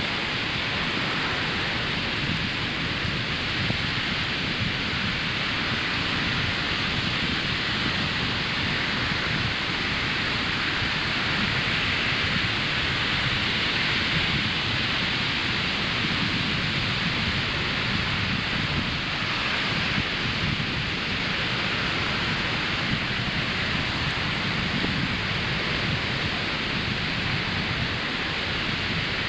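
Ocean surf breaking on a sandy beach: a continuous wash of waves that swells and eases slowly, with no single break standing out.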